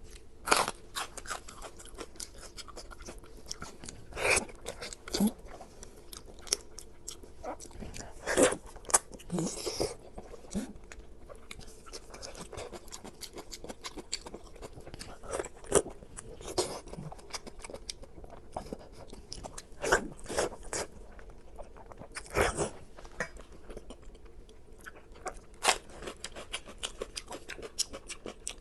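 A person eating close to the microphone: crisp, crunchy bites and chewing, with irregular sharp crunches and a few louder bites every few seconds.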